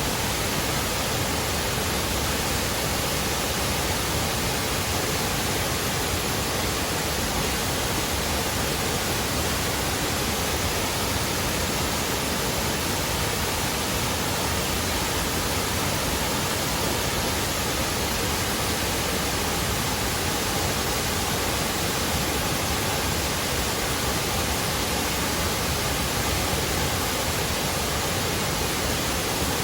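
Waterfall: falling water making a steady, unbroken rush with no change in level.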